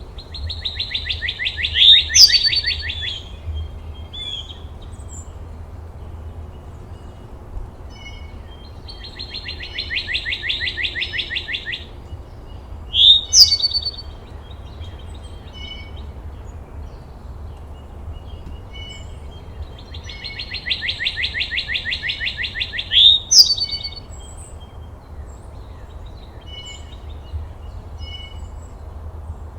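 A songbird singing the same phrase three times, about ten seconds apart: each phrase is a fast, even trill of two to three seconds ending in a couple of sharp, loud notes. A steady low rumble lies underneath.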